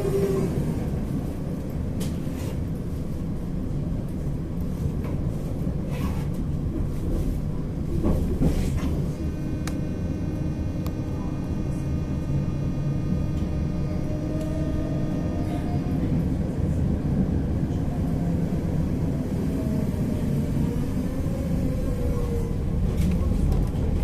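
Electric tram running on its rails, heard on board: a steady rumble of wheels on track with a few knocks over rail joints. The traction motor's whine glides up and down as the tram speeds up and slows.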